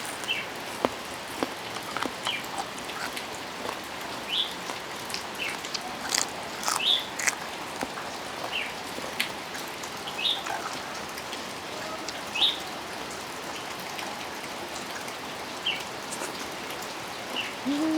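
Steady rain falling, with scattered sharp drips and ticks, and short high chirps here and there throughout.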